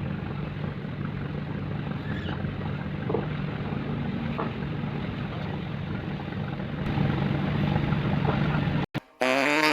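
Tugboat diesel engine running steadily, a low drone under a wash of noise, getting louder about seven seconds in. It cuts off abruptly near the end and music starts.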